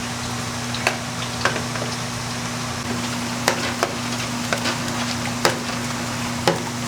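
Kkwabaegi twisted doughnuts frying in hot oil: a steady sizzle over a low steady hum, with occasional sharp clicks.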